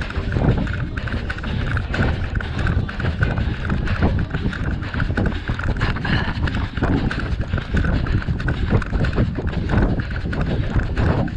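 A runner's footsteps at race pace, a steady rhythm of short thuds, with the jostling of the body-worn GoPro camera and wind rumble on its microphone.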